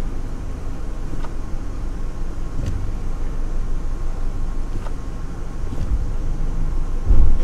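Jeep Patriot four-cylinder engine idling steadily, heard from inside the cabin, with a few faint clicks and a short low thump near the end as the brake pedal is pressed and released by hand.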